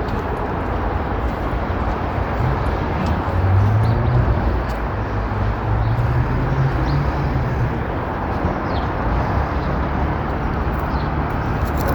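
Street traffic with a vehicle engine passing, loudest about three to four seconds in, and a few faint bird chirps.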